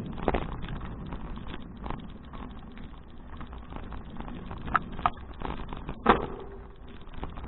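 Bicycle riding noise picked up by an action camera: steady rush of wind and tyre noise, with a few sharp knocks and rattles, the loudest about six seconds in.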